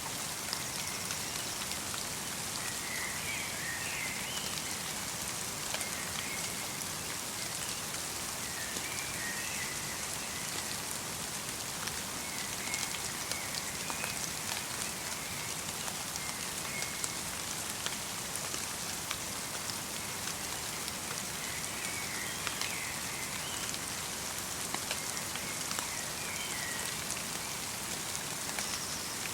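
Light rain in a winter forest: a steady soft hiss with scattered ticks of individual drops. A small bird gives short chirps every few seconds.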